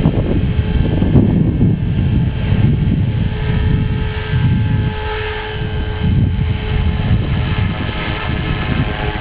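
Electric RC helicopter (Align T-Rex 450 Pro) in flight, its motor and rotors giving a thin whine of several steady tones, half buried under loud gusting wind rumble on the microphone.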